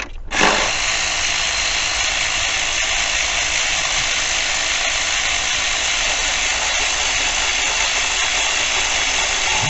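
A power tool runs steadily for about nine seconds, spinning a bolt loose on the engine. It starts abruptly about half a second in.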